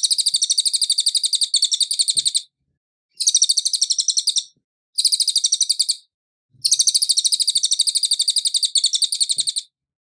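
Cililin singing: fast, evenly pulsed high trills of chirps in four bursts of about one to three seconds with short gaps between them, stopping shortly before the end.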